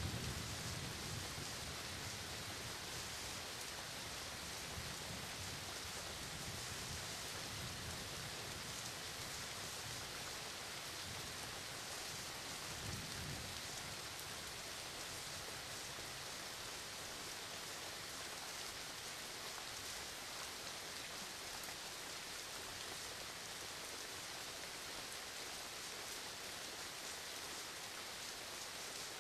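Steady rain hissing. A low rumble of thunder fades out over the first several seconds, with a brief low rumble again about halfway through.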